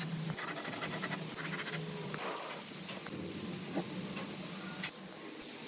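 Short scraping strokes that come and go over a low steady hum, with a few light clicks.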